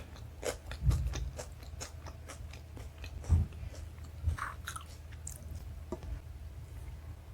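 Close-miked chewing of a mouthful of chole bhature and rice: quick wet mouth clicks and smacks, with a few dull low thumps about a second in and again around three and four seconds.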